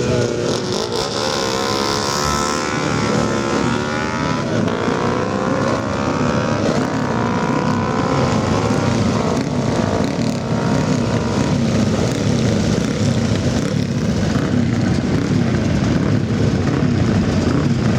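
Motorcycle engine running, its pitch rising and falling for about the first ten seconds, then settling into a steadier rumble.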